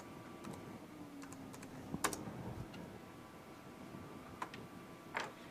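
Faint, scattered clicks of a computer keyboard as "localhost" is typed, a few keystrokes at a time with gaps between.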